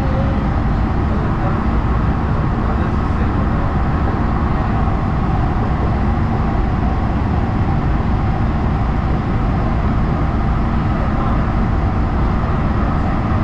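LA Metro rail car in motion, heard on board: a steady low rumble of the car rolling along the track, with no change in pace.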